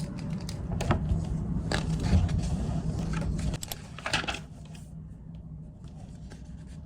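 Rustling and light clicks of something being handled, over a steady low hum; the handling is busiest in the first four seconds, then quieter.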